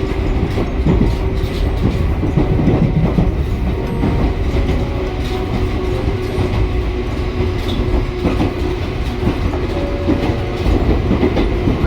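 A small narrow-gauge electric train on the Sangi Railway Hokusei Line running, heard from inside the car: a steady low rumble with a held motor hum and the clickety-clack of wheels over rail joints.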